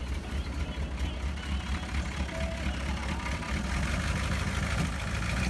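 1986 GMC truck's 6.2L V8 diesel engine running just after a hard start following two years of sitting. It gets somewhat louder in the second half, as it is given gas.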